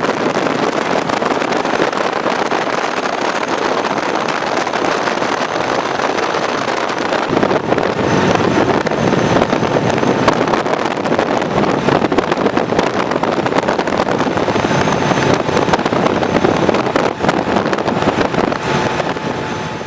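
Motorcycle riding at speed: a steady rush of wind and road noise over the engine, starting suddenly.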